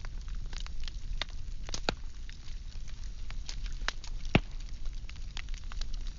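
Firewood burning, crackling and popping in irregular sharp snaps, with one louder pop about four seconds in, over a low steady rumble.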